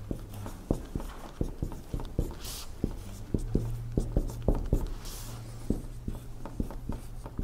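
Dry-erase marker writing on a whiteboard: an irregular string of sharp taps, about two a second, as letters and numbers are put down, with a couple of short squeaky strokes. A low steady hum lies underneath.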